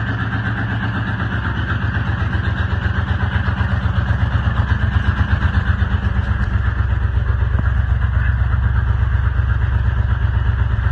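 A 1976 Ford F-150's engine running at idle in the first minutes after a cold start at around freezing, with a steady low rumble and a loudness that pulses unevenly from about halfway in.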